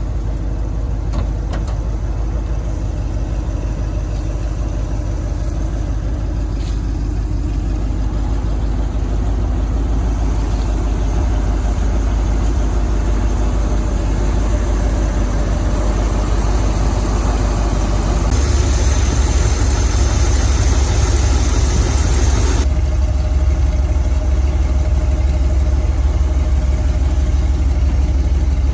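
1956 Ford F-100's 351 Cleveland V8 idling steadily. A hiss rises over it for about four seconds, a little past the middle, and the low end grows heavier from then on.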